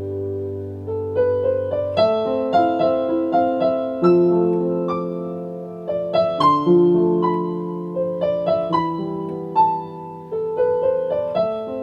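Solo piano playing a slow, gentle original piece. Chords and melody notes are struck and left to ring and fade over a low sustained bass, with new phrases beginning about two seconds in and again every couple of seconds.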